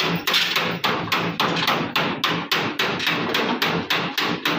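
Rapid, steady hammering, about five blows a second, that stops at the end.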